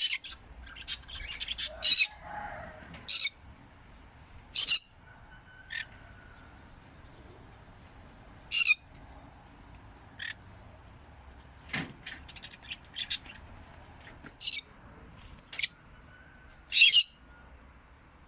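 Pet conures making short, sharp chirps and squawks, one every second or two with quieter gaps between.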